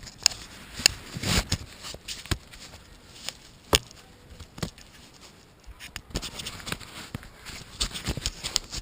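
Scattered clicks and knocks of handling, irregular, with one sharp knock a little under four seconds in.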